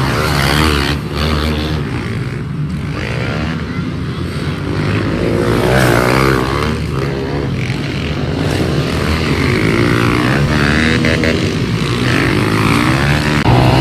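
Several pit bike engines revving, each rising and falling in pitch as the bikes accelerate and back off, with their notes overlapping.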